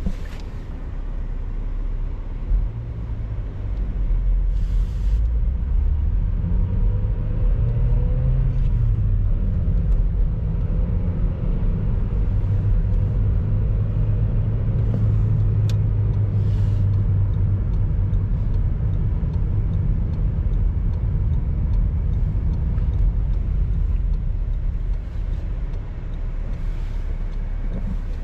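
A car driving: a steady low engine and road rumble, which gets louder a few seconds in as the car picks up speed and then holds even.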